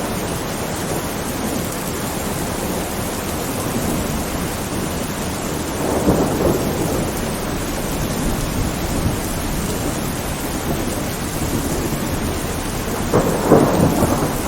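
Steady heavy rain with rolling thunder. The thunder swells about six seconds in and rumbles louder again near the end.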